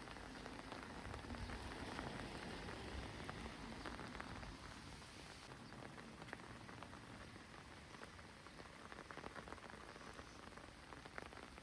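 Faint rain falling, with many small scattered raindrop ticks, a little louder in the first few seconds.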